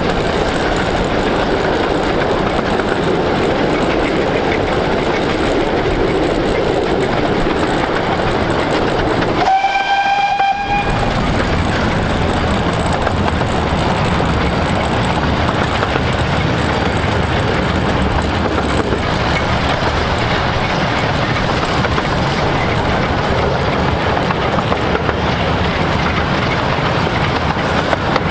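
15-inch-gauge steam train running along the line: a steady rush of wheel and rail noise. About ten seconds in, the steam locomotive Hercules sounds one short blast on its whistle, about a second long, rising slightly in pitch.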